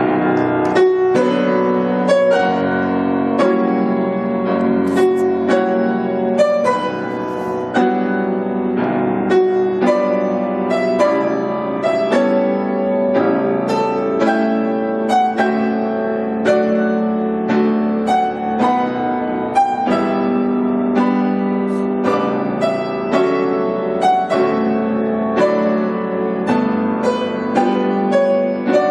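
Piano music begins suddenly as the spoken reading ends: a steady flow of struck chords and melody notes that keeps going without a pause.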